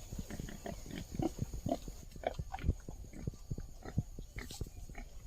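Dogs mating, with short, irregular animal noises coming in quick succession.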